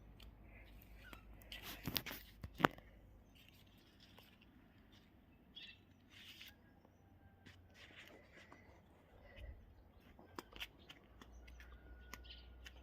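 Quiet outdoor ambience with a few faint bird chirps and scattered clicks and knocks, the sharpest about two and a half seconds in.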